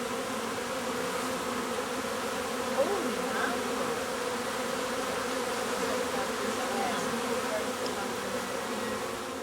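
A swarm of honeybees buzzing in a dense, steady hum. About three seconds in, a single buzz bends up and down in pitch.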